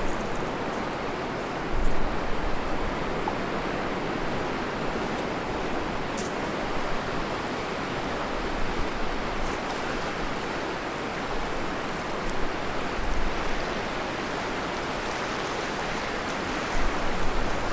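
Steady outdoor rushing of wind and water, with a few short low rumbles of wind on the microphone about 2 s in, around 13 s and near the end.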